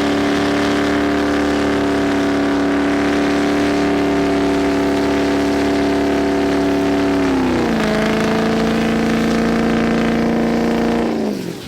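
A truck engine held at steady high revs. About three quarters of the way through the revs drop a step and then sag slowly, and near the end they fall away quickly as the throttle comes off.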